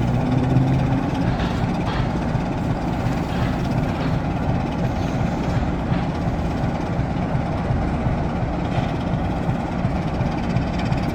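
Heavy heritage diesel locomotive engines idling with a steady low rumble.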